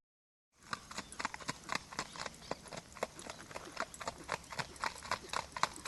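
Hoofbeats of a Mangalarga Marchador horse: a quick, even clip-clop of hoof strikes that starts after about half a second of silence.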